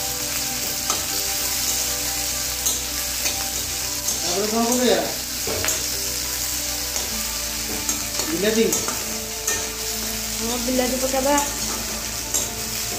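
Sliced onions sizzling steadily in hot oil in a kadai while a metal spatula stirs and scrapes them, with light clicks of metal on the pan. Short pitched gliding sounds come through three times over the sizzle.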